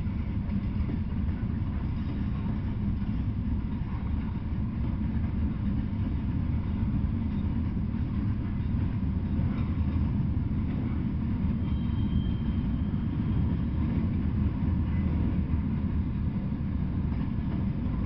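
Freight cars rolling past on the rails: a steady, continuous low rumble of wheels on track, with no pause or change in level.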